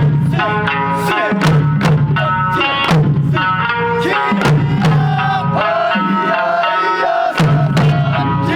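Okinawan Eisa music: taiko drums striking a steady beat under a sung folk melody with sanshin accompaniment.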